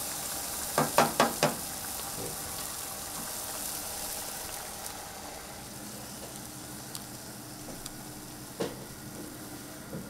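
Risotto sizzling in a frying pan while it is stirred, the hiss easing off in the second half. Four quick knocks about a second in and another near the end stand out above it.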